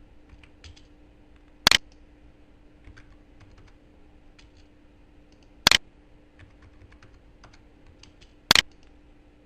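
Computer keyboard and mouse clicks: three loud, sharp double clicks a few seconds apart, with faint lighter ticks between them, over a faint steady hum.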